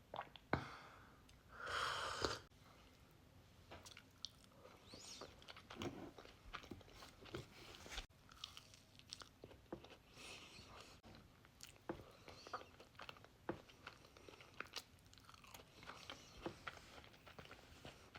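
A person chewing crunchy cookies close to the microphone, a steady run of small crunches and mouth clicks, with a louder burst about two seconds in.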